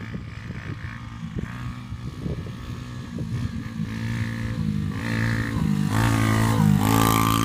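Quad bike engine running, with scattered knocks for the first few seconds, then its note growing louder as it revs up, loudest near the end.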